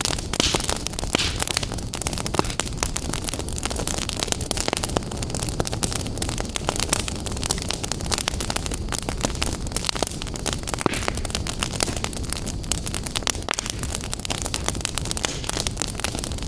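Wood fire burning in a fireplace, crackling with many irregular sharp pops over a steady rushing hiss.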